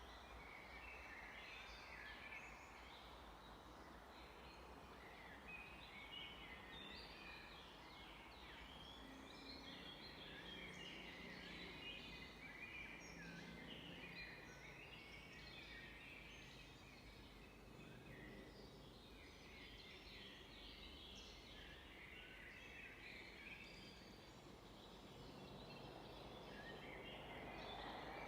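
Faint dawn-chorus-like mix of songbirds: many short, overlapping chirps and song phrases from several birds, over a steady low rumble.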